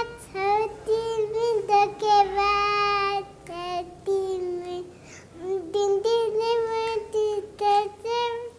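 A young boy of about four singing a Nepali song unaccompanied, in a high voice, in short phrases with brief pauses for breath.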